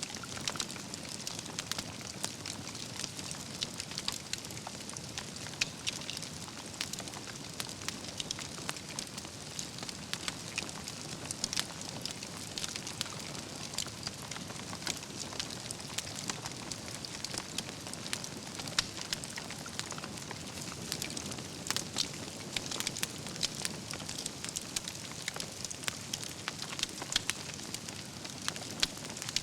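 Wood campfire burning with a steady crackle, logs popping in frequent sharp, irregular snaps.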